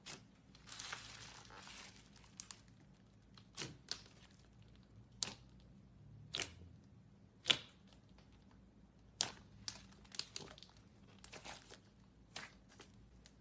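Slime worked by hand. About a second in comes a crinkly stretching sound, then a string of sharp, irregular pops and clicks as it is squeezed and pressed.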